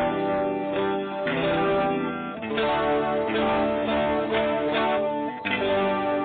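Budget maple-body electric guitar played with a clean tone: chords are strummed several times and left to ring between strokes.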